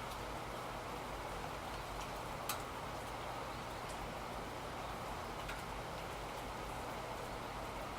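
Steady rain, with a few sharper drops ticking now and then.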